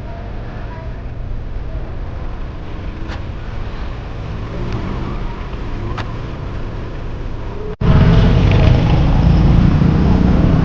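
Steady vehicle and road noise heard while riding, a low rumble. About three-quarters of the way through, an abrupt cut jumps to a much louder rumble.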